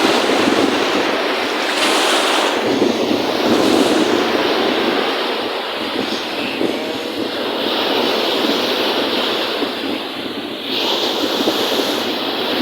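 Wind-driven lake waves washing and splashing in a steady rush, with surges of wash every few seconds.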